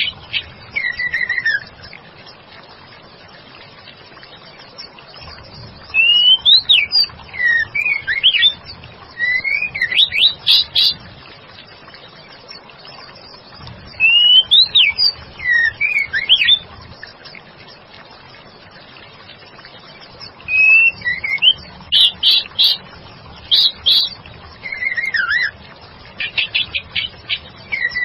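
Female white-rumped shama singing in spells of a few seconds: rising and falling whistled notes mixed with quick chattering notes, with pauses of several seconds between the spells.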